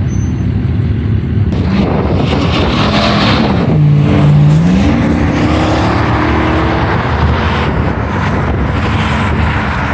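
Car engine running, its pitch dropping for about a second and then climbing steadily as it revs up, over a rushing noise that starts about a second and a half in.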